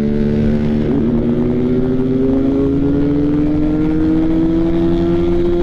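Motorcycle engine pulling hard under acceleration, its pitch climbing steadily, with a brief dip about a second in like a gear change.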